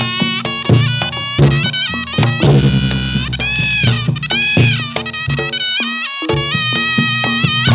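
Reog Ponorogo gamelan accompaniment for a jathilan dance: a slompret shawm plays a loud reedy melody with sliding, bending notes over repeated kendang drum strokes and low sustained gong tones.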